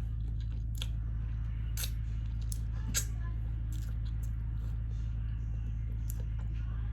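Steady low hum with a few faint, scattered light clicks and taps.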